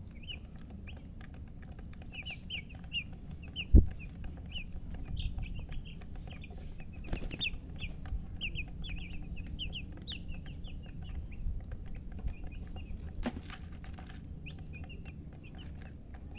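Baby chicks peeping: many short, high chirps in quick succession. A single loud low thump about 4 s in, and brief scratchy rustles around 7 and 13 seconds.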